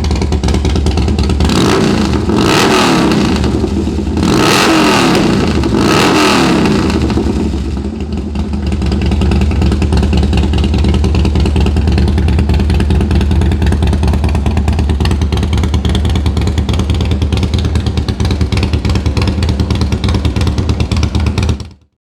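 2004 Harley-Davidson Softail Deuce CVO's Screamin' Eagle V-twin idling through its Thunderheader exhaust, revved three times in quick succession in the first few seconds, then settling back to a steady idle until the sound cuts off suddenly near the end. The engine runs well, with no sign of trouble.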